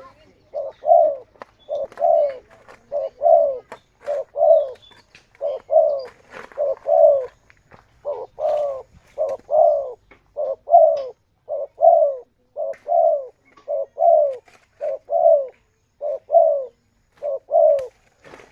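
Spotted dove (tekukur) cooing: a long series of low, slightly falling coos in short groups of two or three, about two notes a second.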